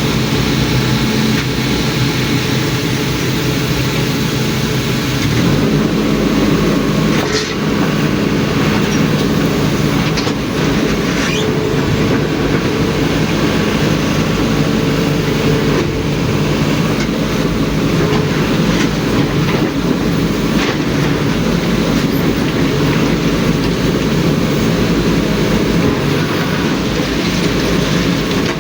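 Ashok Leyland tipper truck's diesel engine running steadily under way, with constant rattling and a few brief knocks.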